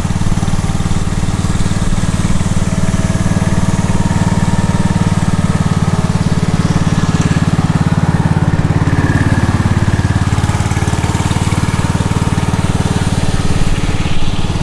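Tractor engine running steadily under load while towing a field drag through the infield dirt.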